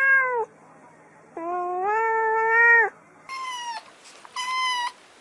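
Cats meowing: a short meow, then a long drawn-out meow, then two shorter, higher-pitched mews.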